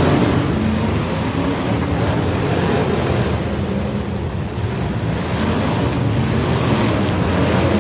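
Several demolition derby cars' engines running at once, a loud, steady din of mixed engine noise without any single crash standing out.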